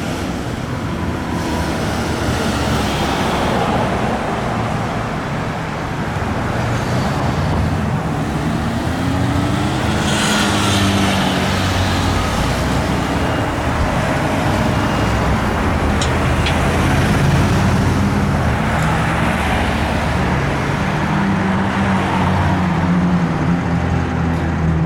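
Road traffic with heavy vehicle engines running and passing, their low rumble rising and falling in pitch.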